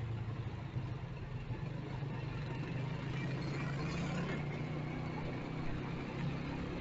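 Small motorcycle engine running at a steady pitch, with traffic and road noise around it.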